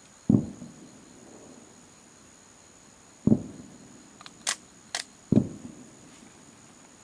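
Distant firework shells bursting: three dull booms, each trailing off briefly, a moment in, about three seconds in and just after five seconds. A few sharp high clicks fall between the second and third boom.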